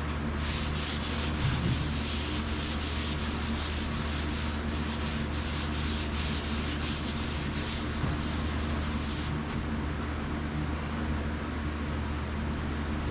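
Hand sanding old paint on a truck cab's metal roof with sandpaper: quick back-and-forth rubbing strokes, about three a second, that stop about nine seconds in. The paint is sanding down smooth.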